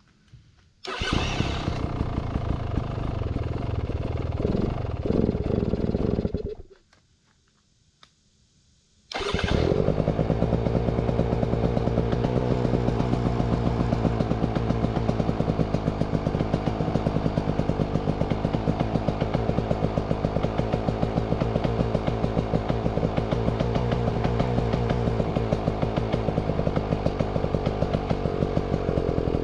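Beta Xtrainer's two-stroke engine starting about a second in, running for about five seconds and cutting out, then restarted about nine seconds in and idling steadily with an even pulsing, being run up to operating temperature.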